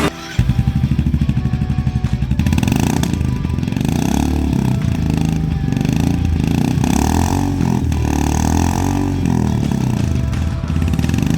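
Royal Enfield Meteor 350's single-cylinder engine through an aftermarket barrel exhaust, idling with distinct firing pulses, then revved up and down several times.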